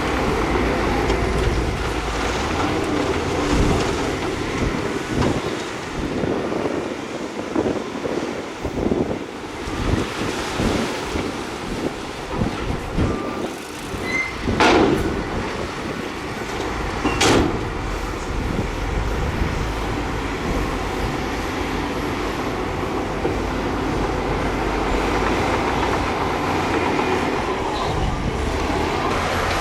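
Heavy diesel earthmoving machinery running under load, a steady engine rumble with irregular metallic clanking, and two loud bangs about fifteen and seventeen seconds in.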